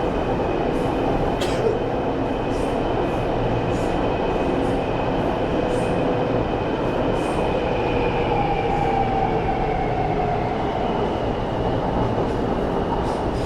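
Tuen Ma line metro train running in a tunnel: a steady rumble and rush of wheels on rail, with a faint motor whine that slowly falls in pitch and light regular ticks.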